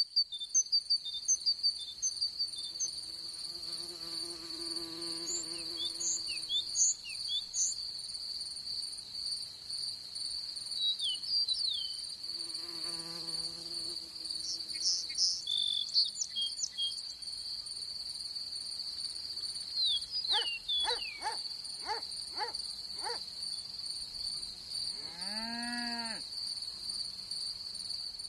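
Meadow ambience: crickets chirring steadily, with scattered high bird chirps and a few low animal calls, twice early on and once near the end.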